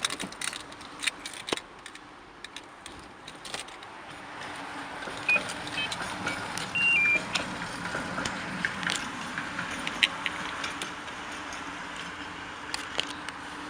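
Keys jangling and clicks, then about four seconds in a steady engine hum sets in, with a few short electronic beeps: a Mercedes-Benz W202 C180's four-cylinder petrol engine running after a cold start in frost.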